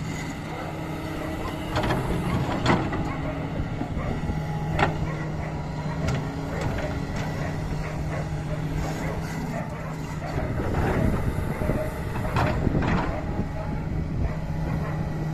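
Doosan DX225 excavator's diesel engine running steadily while it works sand, with several sharp knocks scattered through, the loudest about three seconds in and two more close together near the end.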